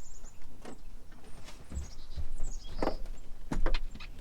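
Scattered knocks and clicks of people moving and handling gear in a boat. The loudest is a sharp knock about three seconds in, followed shortly by a quick run of clicks.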